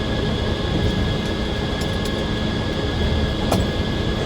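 Circular sawmill running steadily: a constant machinery hum with a steady high whine, and a single sharp click about three and a half seconds in.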